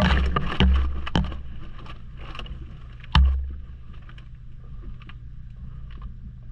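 Maytag washing machine running, heard from inside the tub: a steady low hum with water sloshing, and a few heavy thumps, the loudest about three seconds in.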